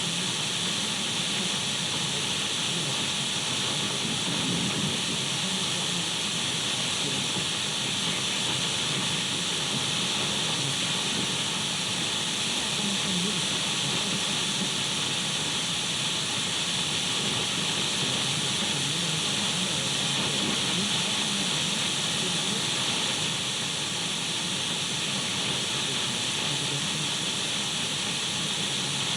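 Untuned radio static: a steady, unbroken hiss, strongest in the upper range, with a few faint steady tones running through it.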